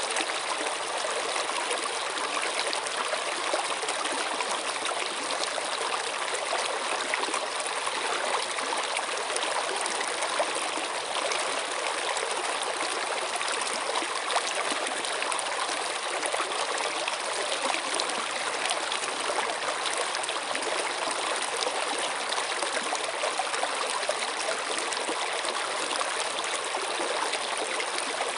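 Stream water running and trickling steadily over stones, a constant splashy babble.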